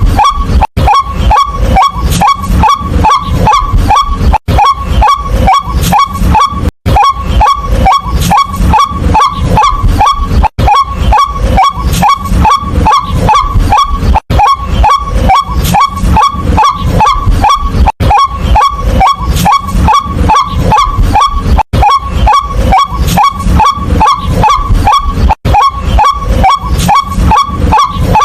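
White-breasted waterhen calling: a loud, rapid run of repeated harsh notes, about three to four a second, going on without pause except for brief breaks every few seconds.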